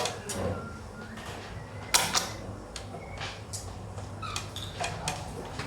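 Xiangqi pieces clacked down on the board: a few sharp, separate knocks spread over several seconds, the loudest about two seconds in.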